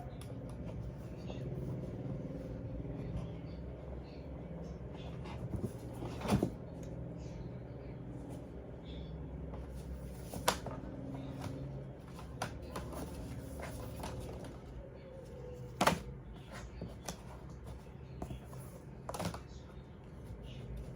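Handling noises from unboxing: scattered taps, knocks and rustles of packaging and equipment being handled, with four sharper knocks spread through, over a steady low hum.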